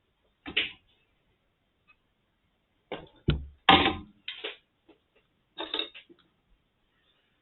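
Casing parts of a Brüel & Kjær 2250 sound level meter being handled as the instrument is taken apart: a handful of short clacks and scrapes. One sharp click with a low thump comes just after three seconds in, and the loudest clatter follows just before four seconds.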